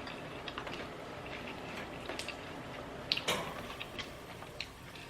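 A person chewing a mouthful of salad close to the microphone: scattered small wet mouth clicks and squishes, with a louder click about three seconds in.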